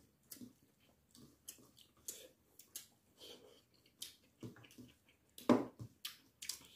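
Close-up eating sounds of people eating braised chicken with their hands: wet chewing and lip smacking in short, irregular bursts, with a louder burst about five and a half seconds in.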